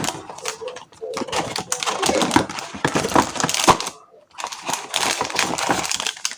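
Crinkling and rustling of paper and packet packaging being handled and opened, as a rapid crackle with a short pause about two-thirds of the way through.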